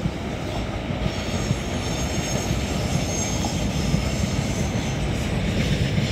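Electric subway commuter train running along the tracks: a steady rumble of wheels on rail, with a faint high-pitched wheel squeal from about one to three seconds in.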